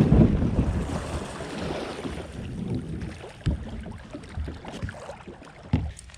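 Wind buffeting the microphone out on the water from a kayak, a gusty low rumble that eases off, with a couple of short knocks.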